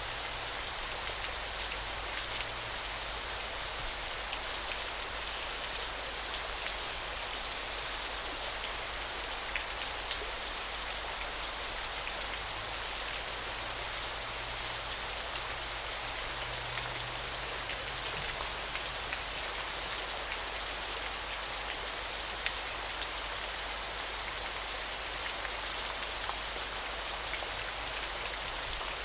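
River water flowing with a steady, even rush. Over it, a high thin buzz sounds three times, about two seconds each, in the first eight seconds, then comes back louder and longer from about twenty seconds in.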